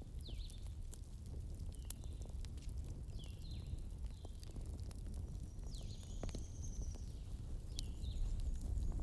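Wood fire crackling: scattered sharp pops over a low steady rumble, with short high chirping whistles every second or so.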